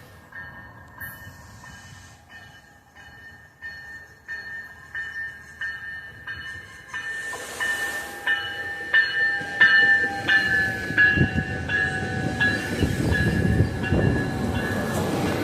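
Railroad grade-crossing bell ringing in even strikes, a little under two a second, as a train approaches; the train's low rumble builds up loud in the second half.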